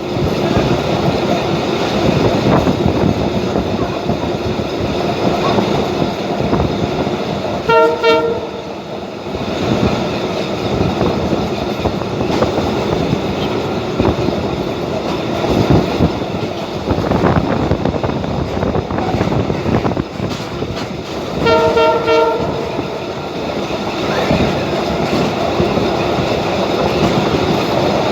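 Passenger train running along the line, heard from aboard: a continuous rattling rumble of wheels and carriages on the rails. A train horn sounds two short blasts, one about 8 seconds in and one about 21 seconds in.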